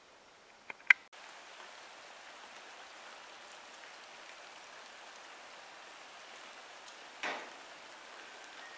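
Steady rain falling on wet pavement and into a puddle, starting about a second in right after a sharp click. A brief louder noise cuts through the rain near the end.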